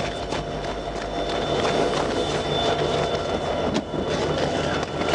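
Freight train rolling on the track alongside: a steady rumble and rattle with many short clicks.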